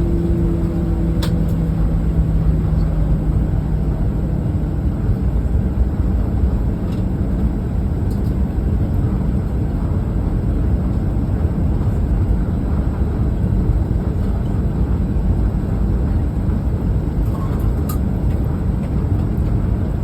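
Steady low rumble inside the cabin of a Boeing 737-900ER from its engines and air system. A steady hum fades out about four seconds in, and there are a few faint ticks.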